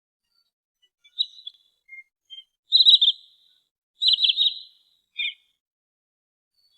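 A sandpiper (trinil sawah) is giving its high, sharp call notes, played as a lure recording. There are a few single notes, then two louder quick runs of three or four notes about 3 and 4 seconds in, and a last short note near the end.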